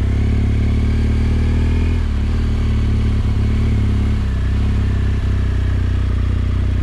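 Motorcycle engine running steadily while riding, with the engine note easing down slightly about two seconds in.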